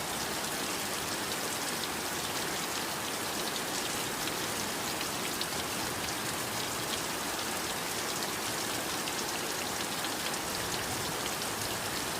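Heavy, steady rainfall: a dense, even hiss of rain with many fine drop ticks landing on surfaces.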